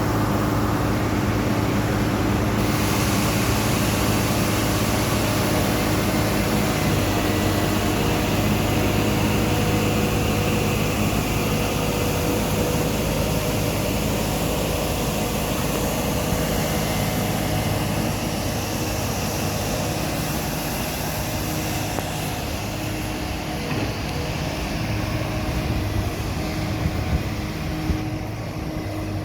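Excavator's diesel engine running steadily during demolition work, with a few short knocks near the end.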